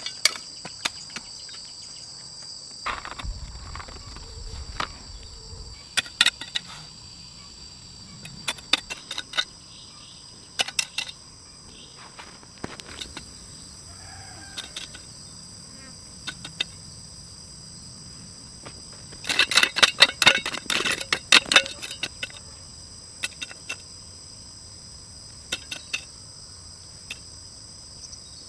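Steady high-pitched chirring of an insect chorus, with scattered sharp clicks and knocks over it and a dense rapid flurry of knocks about two-thirds of the way in.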